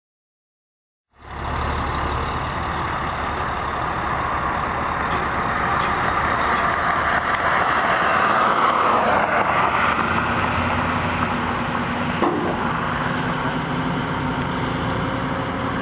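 A motor vehicle running steadily, with engine and road noise, cutting in suddenly about a second in after silence.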